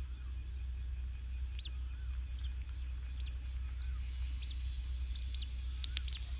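Small bird giving short, high chirps at irregular intervals over a steady low rumble.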